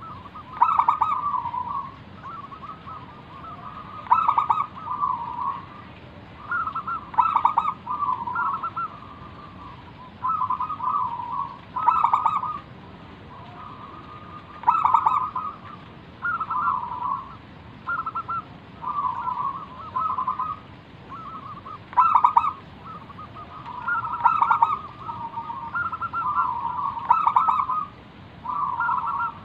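Zebra dove (perkutut) singing its cooing song, manggung: stuttering, trilled coo phrases repeated over and over with short pauses between them.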